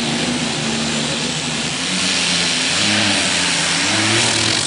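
Mini unlimited pulling tractor under full power during a pull. A loud, dense engine noise with a wavering pitch grows a little louder about two seconds in.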